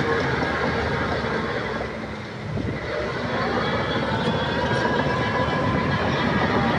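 Heavy earthmoving machinery working: a diesel engine running under a steady metallic clatter. The sound dips briefly about two seconds in, then builds back up and holds steady.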